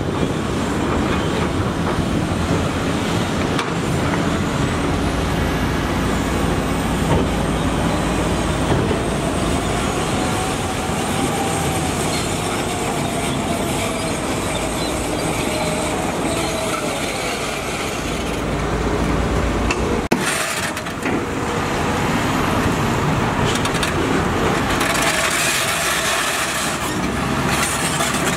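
Heavy diesel construction machinery running steadily under load, with a brief break about twenty seconds in.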